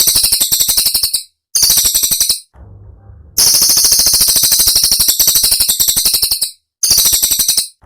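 Cililin bird song: a loud, rapid rattling trill of sharp, high, piercing notes, delivered in four bursts broken by short pauses.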